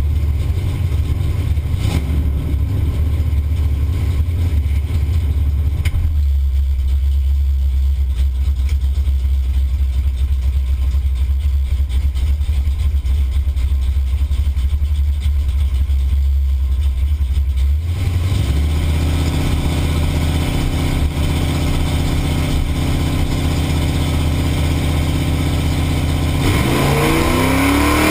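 Pontiac 455 V8 in a Buick wagon idling with a steady low rumble, heard from inside the cabin. Near the end the revs climb sharply.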